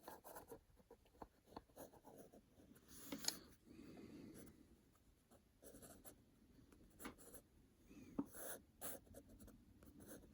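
Micron fineliner pen drawing on paper: faint scratchy short strokes and taps, with a longer stroke about three seconds in.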